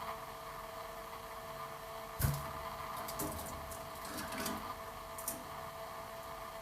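Canaries feeding in their cage: one sharper knock about two seconds in, then scattered light clicks and taps, all over a steady background hum.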